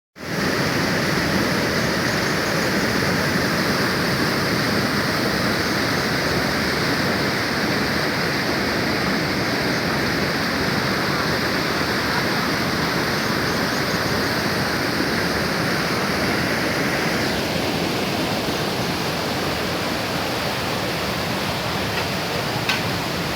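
Waterfall, a steady rush of falling water that turns a little duller about three-quarters of the way through.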